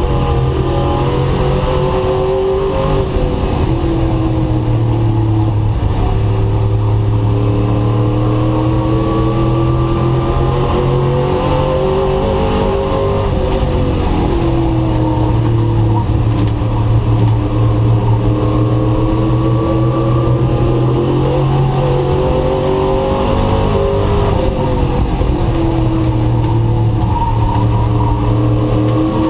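Race truck engine heard from onboard at racing speed. Its pitch dips about every ten seconds as it slows for a corner, then climbs again down the straight.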